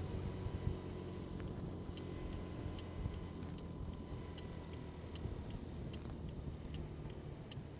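Motorcycle engine running under a steady rumble of wind and road noise. From about two seconds in, a turn-signal indicator ticks evenly a little over once a second.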